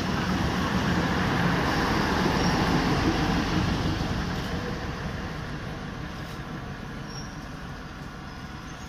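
A DEMU train's coaches rolling past on the rails, with steady running noise from the wheels and running gear. The noise is loudest until the rear cab passes about four seconds in, then fades as the train draws away.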